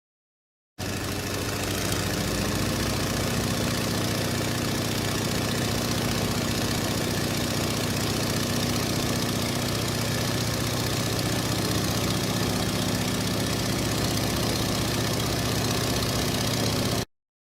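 Aircraft engine running steadily: an even rushing noise with a low hum. It starts abruptly and cuts off suddenly near the end.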